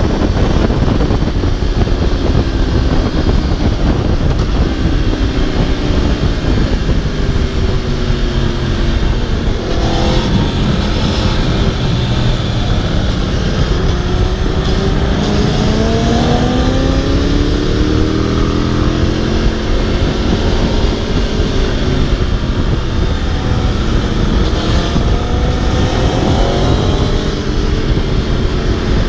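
Aprilia RSV4 superbike's V4 engine heard onboard at speed, its pitch climbing through the gears and dropping again several times, over a steady low rush of noise.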